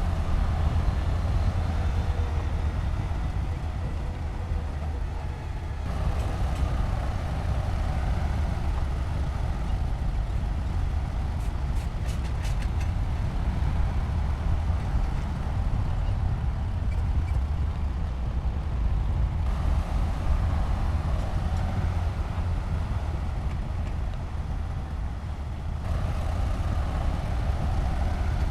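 Heavy diesel construction machinery running with a deep, steady engine rumble. The sound shifts abruptly a few times.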